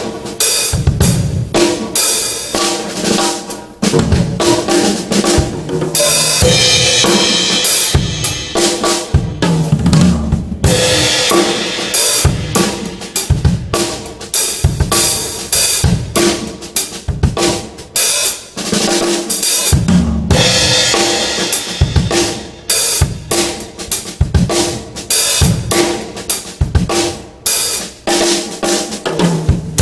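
A drum kit played in a steady beat, with bass drum, snare and cymbals struck in quick repeated hits.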